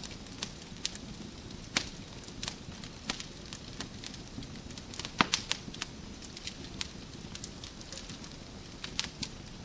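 Wood fire crackling in a fireplace: irregular sharp pops and snaps over a steady low rumble of burning, with the loudest pop about halfway through.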